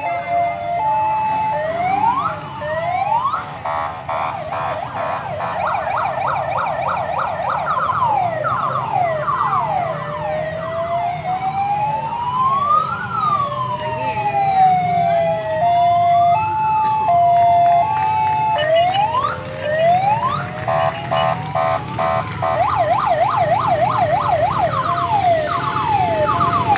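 Several emergency-vehicle sirens sound at once, mixing slow rising-and-falling wails, fast repeated yelps and a two-note hi-lo tone, over a steady low engine rumble.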